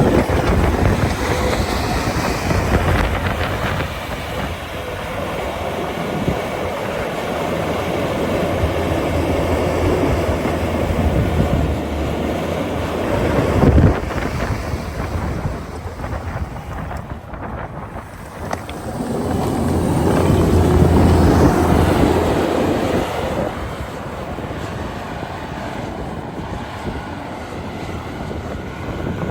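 Skid steer loader engine running under load while scooping dirt, rising and falling in strength, with a louder push about two-thirds of the way through. A single sharp knock comes about halfway.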